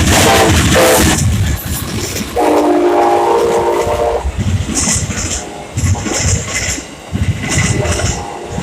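Amtrak passenger train passing close by. Its locomotive horn sounds in short blasts at the start, then in one longer blast of nearly two seconds about two and a half seconds in, over the rumble and clatter of the cars on the rails.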